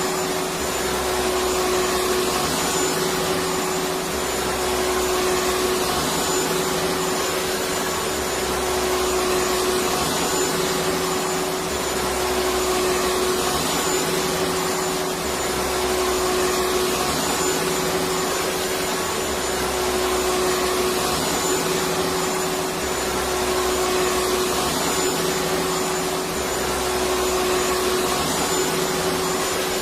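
Electric vacuum cleaner running steadily: a constant whooshing motor noise with a high steady whine, and a low rumble that swells and fades every three to four seconds.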